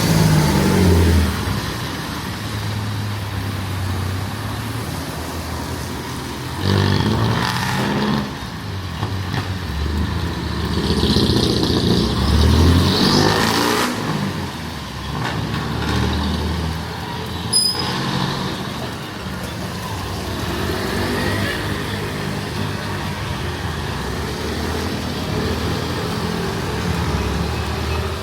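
Street traffic: engines of cars and trucks running and passing close by, swelling and fading as they go. A short, sharp high squeak stands out a little past the middle.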